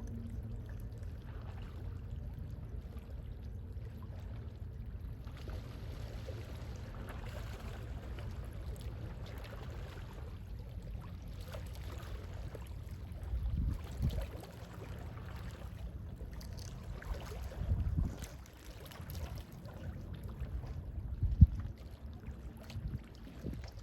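Gentle sea waves lapping, a steady low wash of water noise with a few heavier low thuds partway through, the sharpest near the end.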